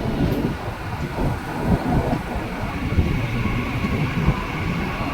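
Mumbai suburban local train running along the track: a steady rumble with irregular knocks of the wheels over the rails and a faint high whine.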